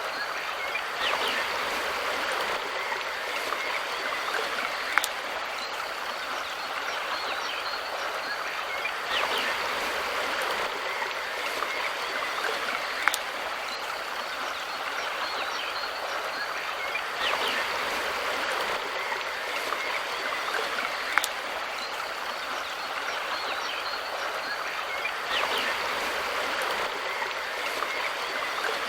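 Mountain river water rushing steadily, swelling slightly about every eight seconds. A sharp click recurs at the same interval.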